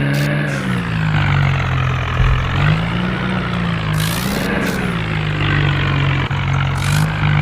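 Tractor engine sound effect running steadily, its pitch rising and falling a little, with short hisses about four seconds and about seven seconds in.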